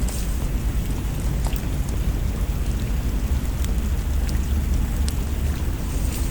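Steady rain with a deep, constant low rumble underneath, dotted with scattered faint sharp ticks.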